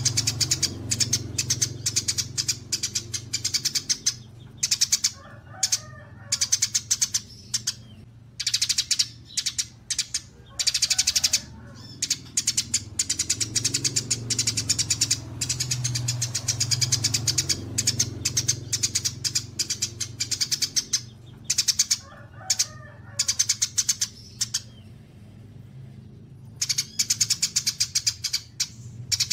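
Songbirds chattering in long, rapid trains of high repeated chips and trills, in bursts with short pauses and a few lower chirps between them, over a steady low hum.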